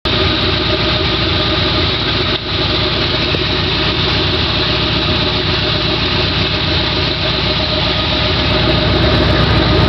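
Ford 351 Windsor V8 in a 1974 F100 idling steadily and loudly through open Flowtech headers, with no exhaust pipes fitted.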